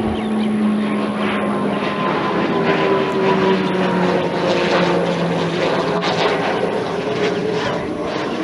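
Military aircraft engine drone from a plane passing by, steady and loud, its tones sliding slowly down in pitch.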